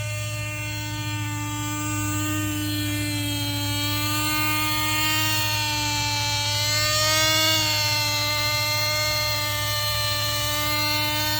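Lite Machines LMH-110 nitro RC helicopter's small glow engine running in flight, a steady high buzz whose pitch wavers up and down and rises briefly about seven seconds in. The engine is running rich on its stock needle setting.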